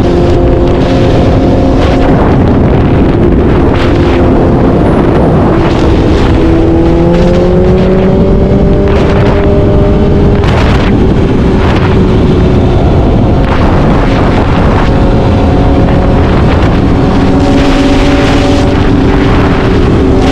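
BMW S1000RR inline-four engine running at highway speed under heavy wind rush on the microphone. The engine note climbs in pitch about a third of the way in as the revs rise, then drops back lower near the end.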